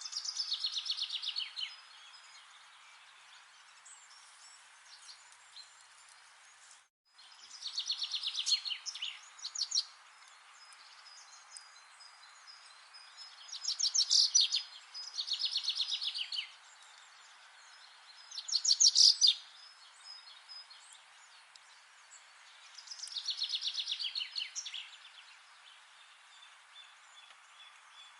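A songbird singing: rapid trilling phrases of one to two seconds each, repeated every few seconds over a steady hiss of forest ambience. The sound cuts out briefly about seven seconds in.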